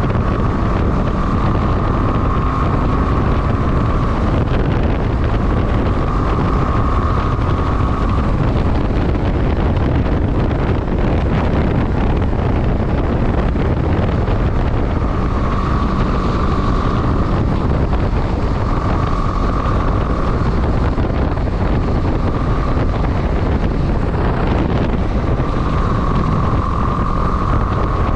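Wind noise over the microphone of a moving motorcycle, with a steady low rumble from the engine. A high whine comes in and fades out several times.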